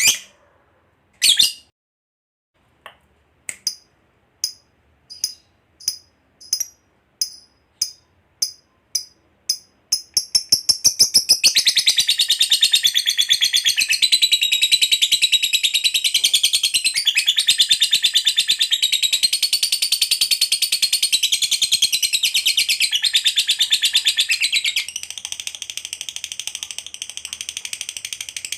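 Lovebird giving its long 'ngekek' chatter. Separate sharp, high chirps come faster and faster, merge about ten seconds in into a continuous rapid high trill, and the trill carries on more softly near the end.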